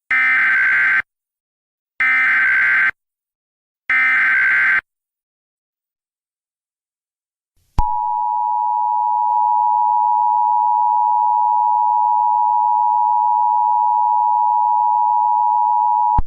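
Emergency Alert System tones, loud. First a SAME header: three one-second bursts of digital data screech, about a second apart. After a pause of about three seconds, a click and then the steady two-tone EAS attention signal, which runs for about eight and a half seconds and cuts off at the end, announcing a new alert.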